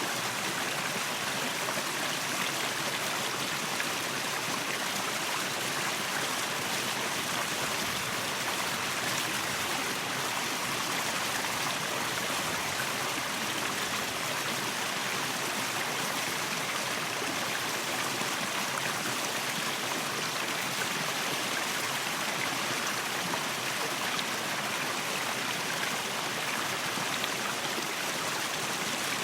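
Waterfall: water falling and rushing in a steady, unbroken hiss that keeps the same level throughout.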